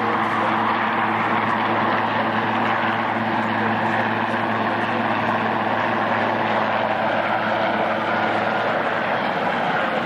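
Helicopter hovering, a steady drone of engine and rotor noise that holds level without change.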